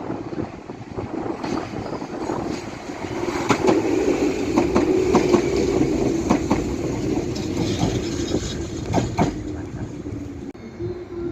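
Electric commuter train moving through the station, its wheels clacking over rail joints in a run of sharp clicks over a steady running hum. The sound builds to its loudest in the middle and eases off near the end.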